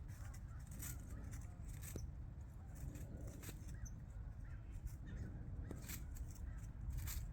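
Short bird calls and chirps over a steady low rumble, with scattered sharp clicks and rustles.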